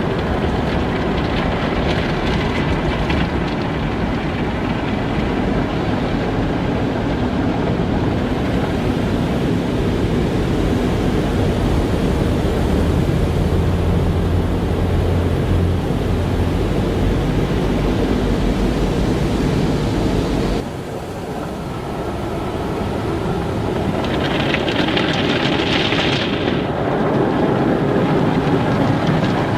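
Car wash in operation: a steady, loud wash of machinery and spray noise over a low rumble. The rumble cuts out suddenly about two-thirds of the way through, and a higher hiss rises for a couple of seconds shortly after.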